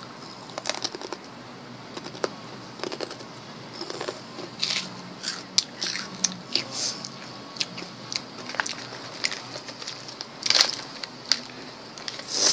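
Someone chewing a crunchy snack close to the microphone: irregular crisp crunches and crackles, the loudest a little over ten seconds in.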